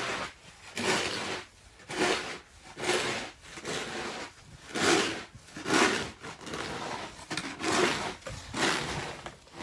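Crunching, scraping strokes in snow, repeating about once a second.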